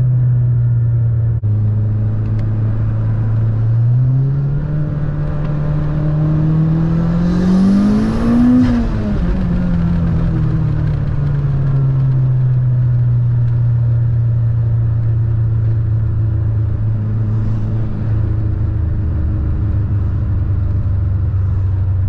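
Turbocharged built 2.0-litre four-cylinder of a Mitsubishi Lancer Evolution X, heard inside the cabin, running steadily at cruise. About four seconds in, the revs climb for several seconds to a peak, with a high hiss rising over the engine near the top, then fall away smoothly to a steady cruise again.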